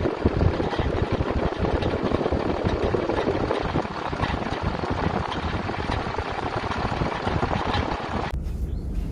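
A semi truck's diesel engine running, heard outdoors amid gusty wind on the microphone. About eight seconds in, it cuts to a steadier low rumble.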